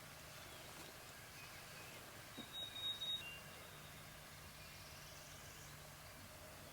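A songbird sings briefly about two and a half seconds in: a few quick ticks and a steady high whistled note, followed by a short lower note. Around it is faint, quiet outdoor ambience.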